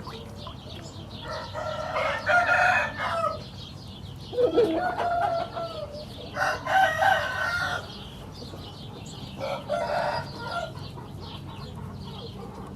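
Roosters crowing: four crows, one after another a couple of seconds apart, each lasting one to two seconds, over a steady background of clucking from other chickens.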